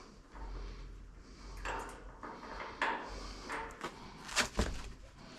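Hand tools and parts being handled during assembly: a few scrapes and rattles, then two sharp clicks close together near the end.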